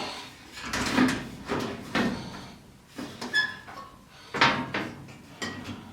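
Sheet-metal furnace access panel being handled and fitted back on: a series of knocks and clatters about once a second, one of them with a brief metallic ring a little over three seconds in.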